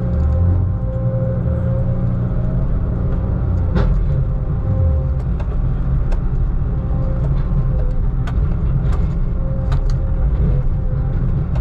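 Heavy logging machine's diesel engine running steadily, a deep drone with a held hum, with a few sharp clicks or knocks over it, the clearest about four seconds in.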